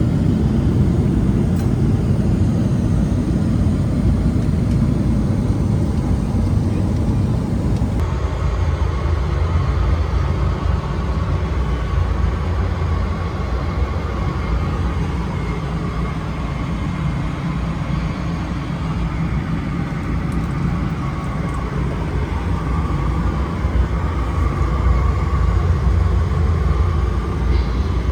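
Steady rumble of jet engine and airflow noise inside the cabin of a Boeing 777-300ER. About eight seconds in the sound changes abruptly, and a steady whine runs alongside the rumble from then on.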